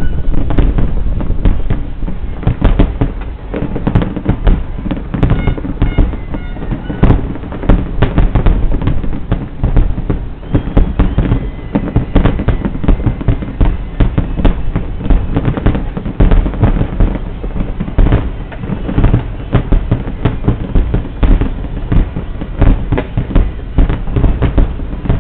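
Fireworks display: a dense, continuous barrage of bangs and crackles, several bursts a second, overlapping without pause.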